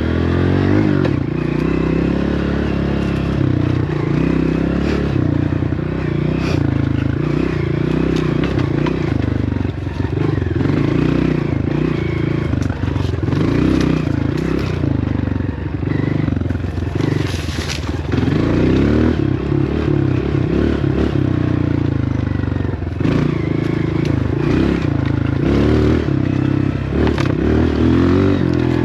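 Dirt bike engine running while being ridden over rough trail, its pitch rising and falling with the throttle, with scrapes and knocks throughout.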